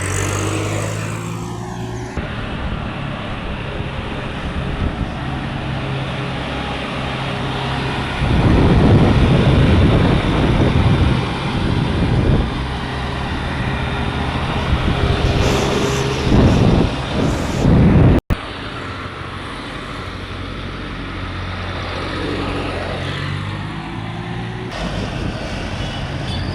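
28 HP three-cylinder diesel mini tractor engine running steadily. It gets louder and rougher for a few seconds about a third of the way in, and again shortly before a sudden cut.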